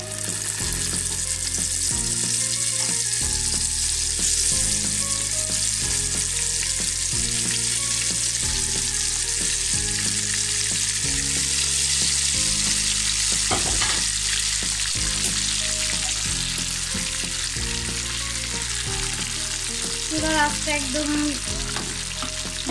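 Blended chana dal paste frying in hot ghee and soybean oil, a steady loud sizzle as the wet paste hits the fat.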